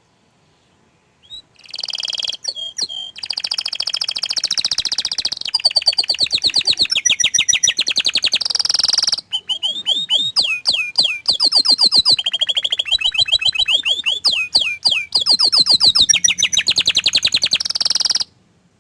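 Orange frost domestic canary singing one long song of fast trills and rolling phrases. It starts about two seconds in and stops abruptly near the end.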